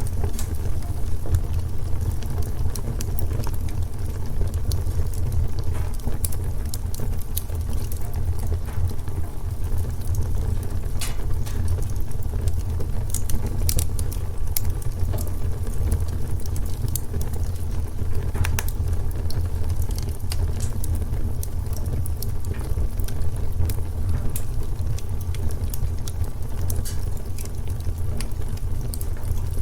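Wood fire burning in a fireplace: irregular crackles and sharp pops over a steady low rumble.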